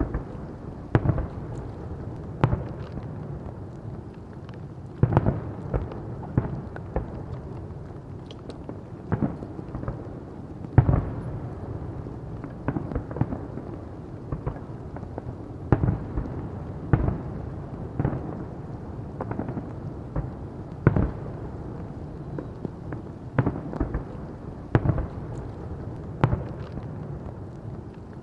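Fireworks display: aerial shells bursting in an irregular string of sharp bangs, about one or two a second, over a continuous low rumble of booms echoing, with one especially loud bang about eleven seconds in.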